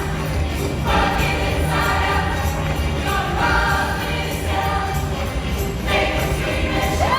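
Show choir singing a rock number in phrases over backing music with a steady beat. Near the end a single high voice cuts in with a held note that slides up.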